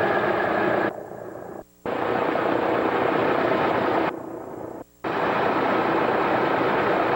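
Piston aircraft engines of a PBY-5A Canso running steadily, a loud, dense drone. The sound drops away abruptly twice, for under a second each time, about one second in and again about four seconds in.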